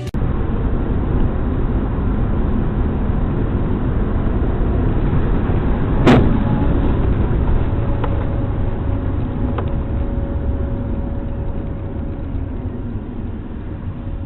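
Inside a moving car: steady low road and engine rumble, with one sharp bang of an impact about six seconds in.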